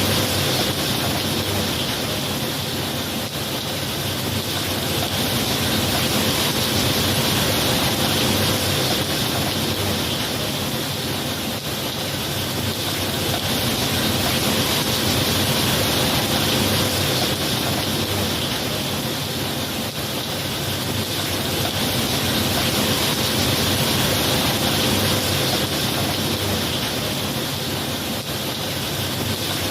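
Steady rain, a dense even hiss that swells and eases gently about every eight seconds, with no thunder claps.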